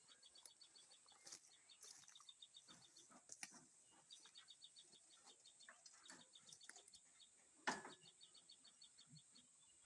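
Faint runs of rapid, high bird chirping in a quiet background, broken by a few short clicks and knocks, the loudest about three-quarters of the way through.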